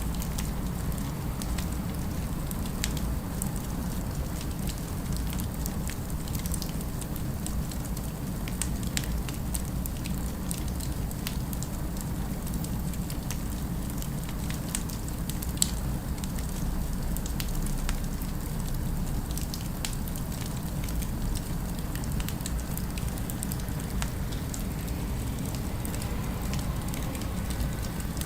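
Fireplace fire crackling with scattered small pops and one sharper pop about halfway through, over a steady low rumble of city ambience.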